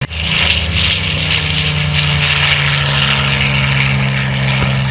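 Propeller aircraft engines running steadily: a continuous low drone with a strong high hiss above it.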